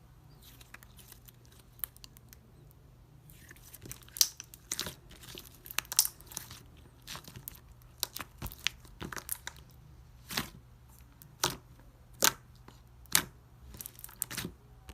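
Ice slime being pressed and pulled, its hardened crust crackling and crunching in sharp, irregular snaps. The snaps are sparse for the first few seconds, then come every second or so.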